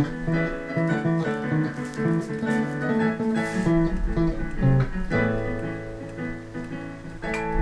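Instrumental music led by acoustic guitar, plucked and strummed, with a held low bass note from about five seconds in.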